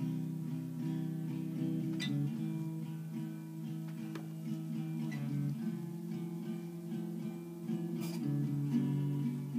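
Acoustic guitar played alone, strummed and picked chords ringing on between verses, with a couple of sharper strum accents, one about two seconds in and one near the end.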